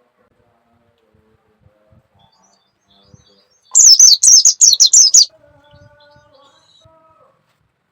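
A small songbird calling: a loud, high burst of about seven rapid chirps, each falling in pitch, lasting about a second and a half near the middle.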